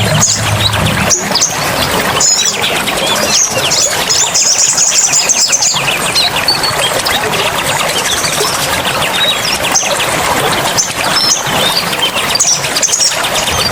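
Small songbirds chirping and trilling at a high pitch over a steady rush of running water, with a fast trill about four to six seconds in.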